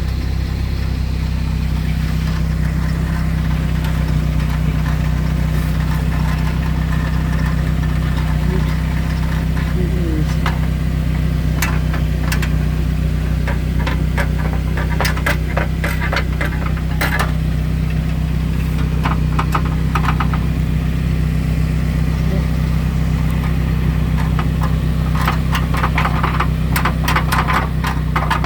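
Saab 9-3 Viggen's 2.3-litre turbocharged four-cylinder running steadily at idle, with bursts of tinny rattling from a loose exhaust heat shield, heaviest around the middle and again near the end.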